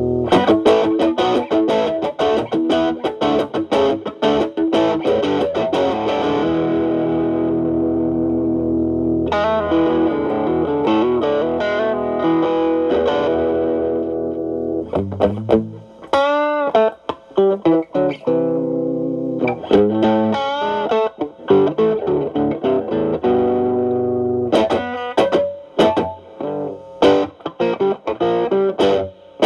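Stratocaster electric guitar played through a Xotic AC Plus overdrive with both channels stacked into a Marshall Valvestate amp, giving an overdriven tone on sustained chords and licks. A little past halfway the gain is cleaned up to a lighter, clearer crunch, and the playing turns to string bends.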